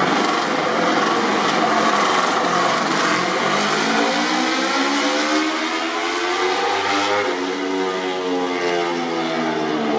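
MotoGP racing motorcycle engine at high revs. Its pitch climbs over a few seconds, then drops from about seven seconds in. Under it runs a steady rushing noise.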